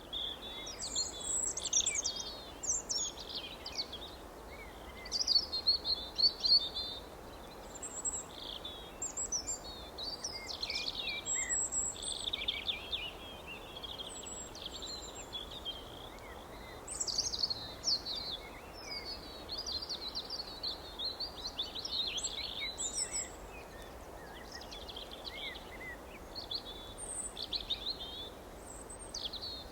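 Wild birds chirping and singing in quick, overlapping phrases, over a faint steady hiss of background noise.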